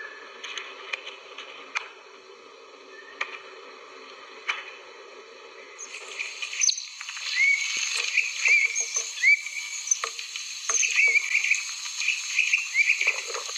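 Small birds chirping: many short, repeated chirps that hook upward in pitch, starting abruptly about six seconds in. Before that there is a steady hum with a few sharp clicks.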